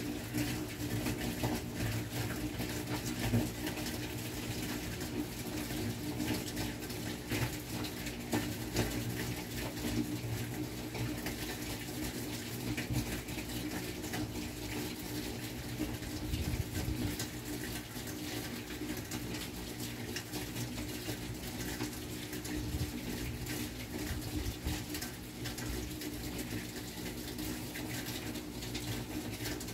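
Steady rain falling in a thunderstorm, a dense even hiss of drops with a low steady hum underneath.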